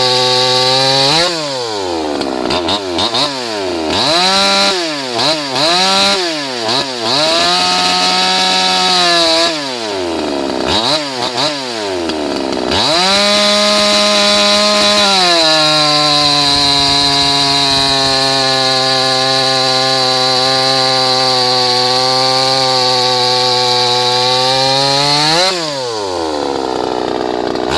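A 58 cc Chinese two-stroke chainsaw is revved in repeated short blips. It is then held at full throttle and pulls down to a lower, steady pitch through a cut of about ten seconds in wood. The throttle is released near the end, followed by a few more blips.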